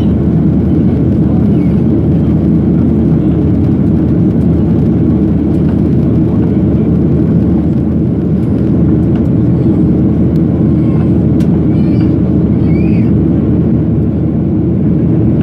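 Steady, loud engine and airflow noise of a Boeing 737-800 with CFM56-7B engines, heard inside the passenger cabin.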